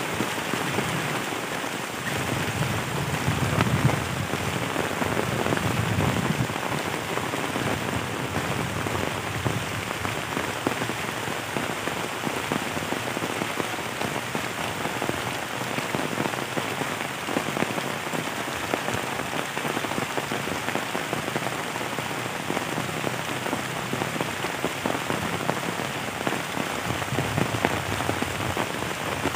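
Heavy rain falling steadily on bamboo foliage and the ground, a dense even patter of drops.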